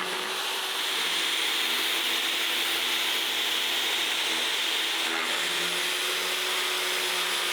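A workshop power tool running steadily: an even whirring noise with a faint hum beneath it.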